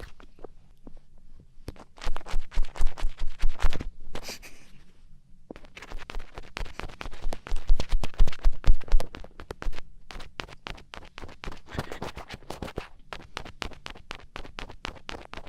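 ASMR ear-cleaning sounds: an ear pick scratching and scraping close up in the ear of a daruma ASMR microphone, in bursts of quick, crackly strokes with short pauses between.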